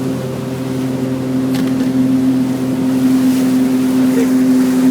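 Motorboat engine running at a steady pitch, its hum growing slightly louder about two seconds in.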